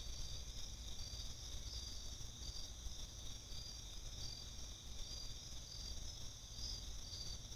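Insect chorus of crickets trilling steadily, with shorter high chirps repeating about twice a second on top, over a faint low rumble.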